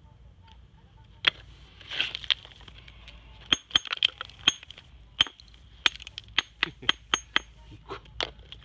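Hammer striking a raw Kyoto natural whetstone (su-ita) to split and chip it along its weak layers: sharp, ringing clinks, a few spaced strikes at first, then a quick run of about a dozen. The ring of each strike is what the craftsman listens to in a tap test to find where the stone's bonding is weak.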